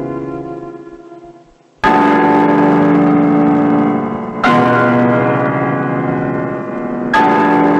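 A large bell tolling slowly: the ring of an earlier strike dies away, then three strikes come about two and a half seconds apart, each left to ring on.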